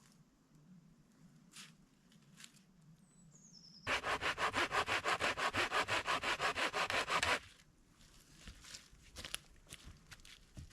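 Hand saw cutting through wood in quick, even back-and-forth strokes for about three and a half seconds, starting and stopping sharply. Small crackles and clicks come before and after.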